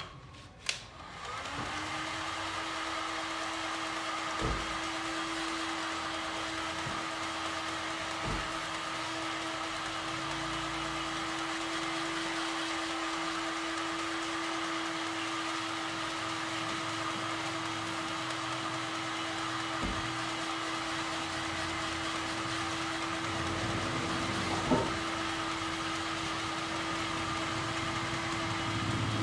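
A click, then a small electric motor switches on and runs at a steady hum, with a few light knocks over it.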